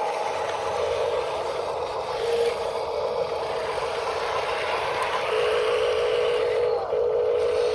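Small electric motors and plastic gearing of a radio-controlled construction model running under power, a steady whine with a gritty rattle. The pitch wavers slightly and turns pulsing in the second half.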